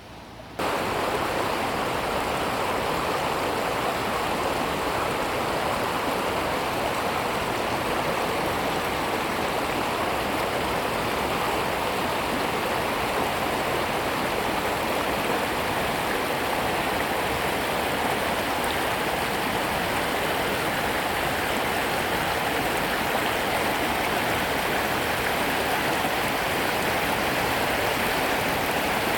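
Steady rush of flowing water from a stream or cascade, even and unbroken, starting abruptly about half a second in.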